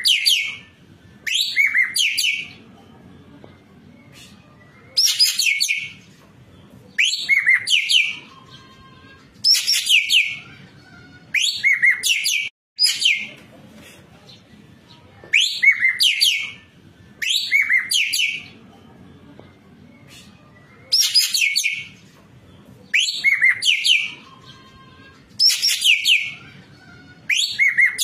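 Ekek keling bird calling, in the active, full-voiced singing that keepers call gacor: a loud, sharp phrase of quick sweeping notes repeated about every two seconds.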